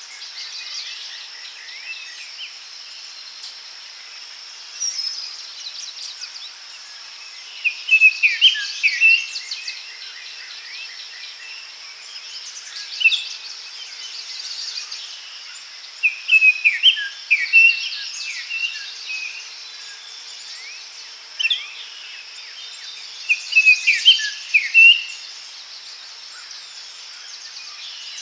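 Forest ambience: a steady high-pitched insect drone with birds singing in repeated bursts of quick chirping notes, the loudest about 8, 17 and 24 seconds in.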